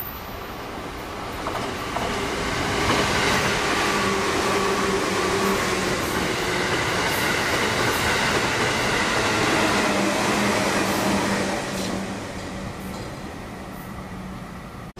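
Orange-and-green striped electric commuter train of the Utsunomiya/Takasaki Line passing through the station at speed on the through track. A rising rush of wheels and motors holds loud for about eight seconds, with clicks from the rail joints and a motor hum that falls in pitch as it goes by, then fades away.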